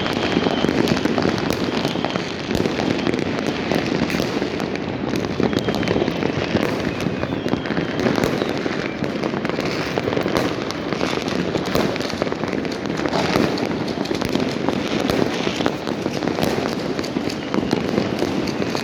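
Dense, continuous barrage of fireworks and firecrackers going off on all sides: countless overlapping bangs, pops and crackles with no pause, holding at a steady level throughout.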